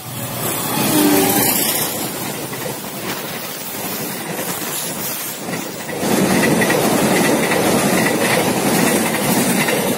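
Passenger train hauled by a CC 201 diesel-electric locomotive passing close by. The locomotive is loudest about a second in, then comes the rumble and clatter of the coaches' wheels on the rails, which grows louder again about six seconds in.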